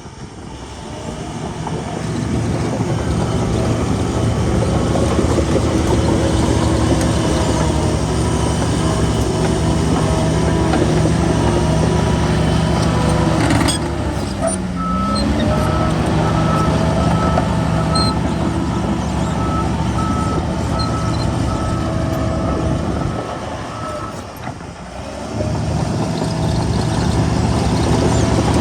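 Heavy diesel engine of earthmoving machinery running, with a reversing alarm beeping over it through the middle stretch. The engine note sags and picks up again about halfway through, and drops off briefly near the end.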